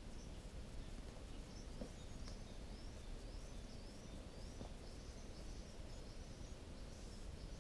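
A bird off in the surroundings calling a faint, long series of short, high, rising notes, about two or three a second, over steady low background noise.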